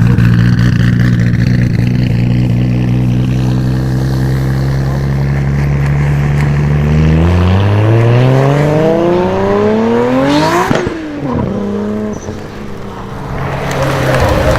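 A supercar engine running at steady revs, then accelerating hard with rising pitch and passing close by about ten seconds in. After the pass the pitch drops and the sound fades.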